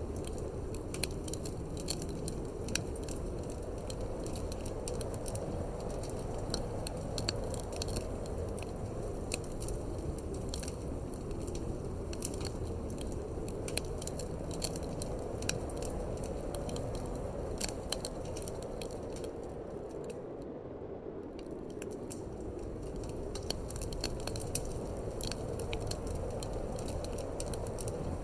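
Wood fire crackling in a fireplace, with frequent sharp pops and snaps over a steady low rush of wind.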